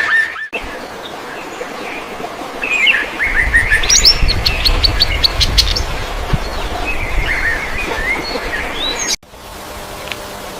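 Songbirds chirping and calling in short sliding phrases, with a fast rattling trill about four seconds in. A low rumble runs under the middle, and the sound drops out abruptly twice, once just after the start and once near the end.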